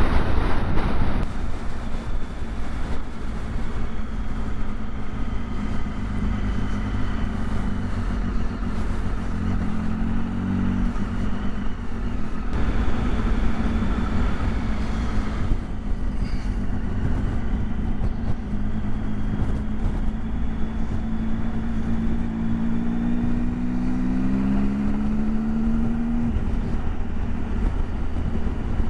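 Motorcycle engine running on the move with steady wind noise, climbing in pitch as it accelerates about ten seconds in and again towards the end, then dropping off sharply. A louder rush of noise comes in for a few seconds around the middle.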